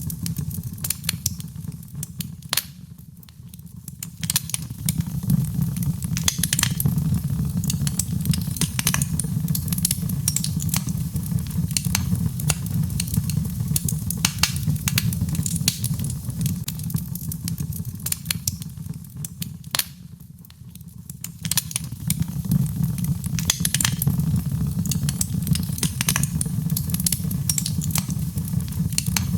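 Birchwood fire burning in a fireplace, crackling with frequent sharp pops and snaps over a steady low rumble of flames. The rumble eases off briefly twice.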